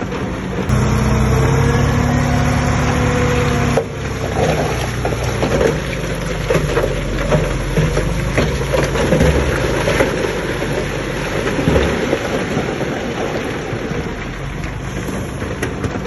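Heavy construction-machine diesel engine running, its pitch edging upward in the first few seconds. About four seconds in, the sound changes abruptly to a rougher engine noise with steady clatter.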